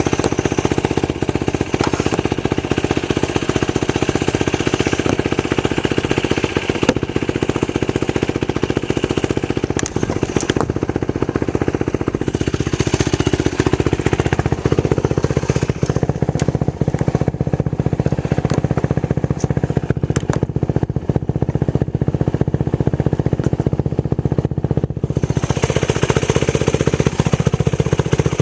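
Yamaha YFZ450 quad's single-cylinder four-stroke engine running loudly through a Lexx aftermarket exhaust, with a rapid, even beat of firing pulses. The hiss on top fades for a long stretch in the middle and comes back near the end.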